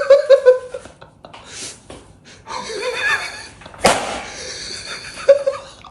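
A brief voice at the start, then soft breathy and rustling sounds with a sharp click about four seconds in, and another short voice near the end.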